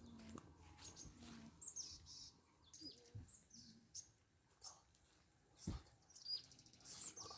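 Small birds chirping faintly: a scatter of short, high chirps, most of them falling in pitch. A single sharp knock sounds a little over halfway through.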